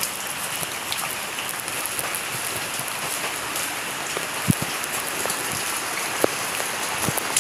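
Rain falling steadily as an even hiss, with a few louder single drops striking close by near the middle and end.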